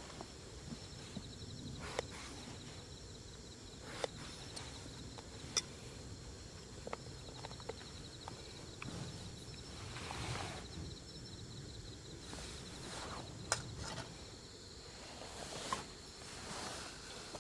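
Insects chirring steadily with a fine, even pulse, with scattered sharp clicks and light knocks of cooking work.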